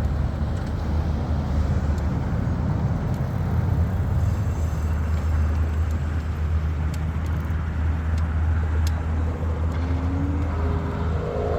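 Steady low rumble of wind and tyre noise while riding an e-bike on the road, with a few faint clicks. A voice starts near the end.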